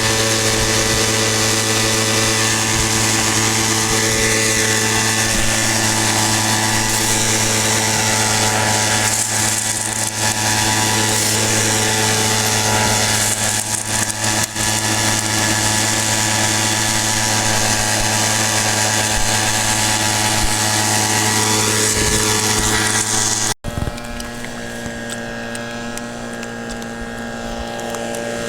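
Small gas engine of a dry washer running steadily at constant speed. The sound cuts off abruptly about 23 seconds in, then resumes somewhat quieter.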